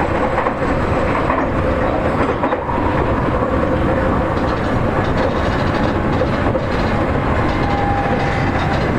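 Seibu 40000 series electric train under way, heard from inside the car: a steady rumble of wheels on rail with some clickety-clack. A faint steady tone runs under it, and a thin higher tone comes in briefly near the end.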